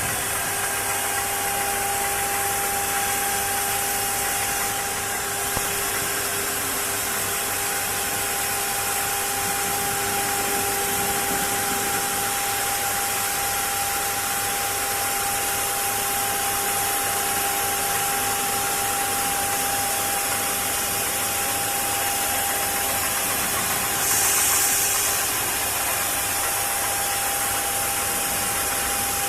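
The 9 kW electric spindle of a 1325 CNC router spinning at high speed: a steady whine over an even hiss. About 24 seconds in there is a brief, louder high-pitched hiss.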